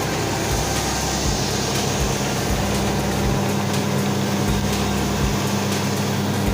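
Homemade drum and disc sander running, its electric motor giving a steady hum with a constant whirring noise.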